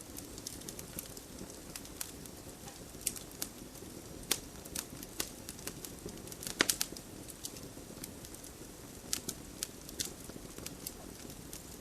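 Wood fire crackling: irregular sharp pops and snaps over a low steady rumble of the flames, with a brief flurry of louder pops about six and a half seconds in.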